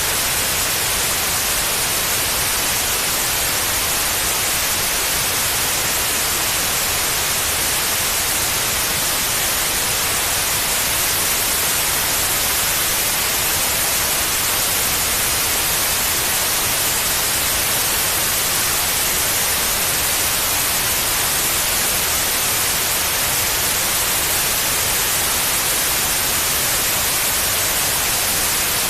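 Steady white noise: an even, unchanging hiss across the whole range, brightest in the highs, played as a soothing sleep sound for babies.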